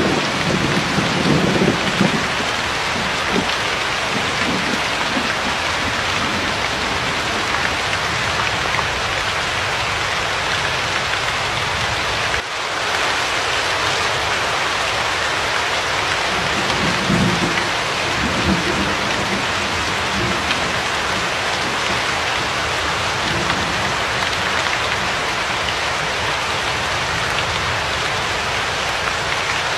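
Steady heavy rain, with low rolls of thunder in the first two seconds and again a little past halfway.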